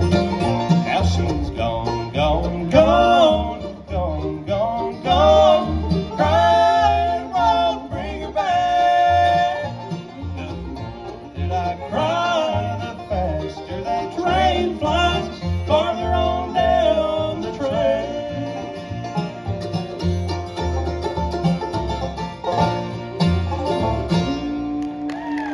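Live bluegrass band playing the closing instrumental stretch of a song, over a steady bass pulse with pitch-bending melody lines. It ends on a single held final note near the end.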